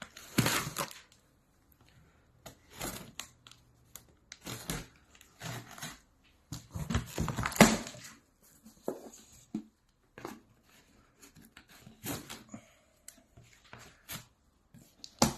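A cardboard product box being handled and opened: irregular rustling, scraping and knocking of the packaging.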